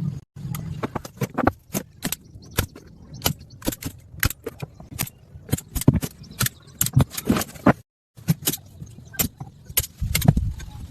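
Irregular series of sharp clicks and knocks, several a second, broken by a brief gap about eight seconds in.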